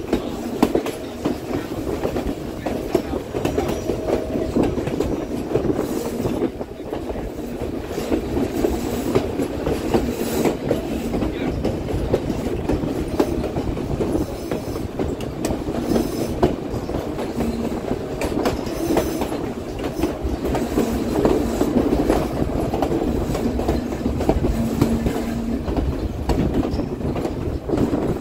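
White Pass & Yukon Route narrow-gauge passenger train running along the track, heard from the open side of a moving car: a steady rumble with wheels clicking over the rail joints.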